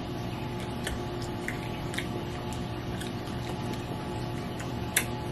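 Quiet chewing of a soft casserole with a big marshmallow in it: a few faint mouth and utensil clicks over a steady low hum.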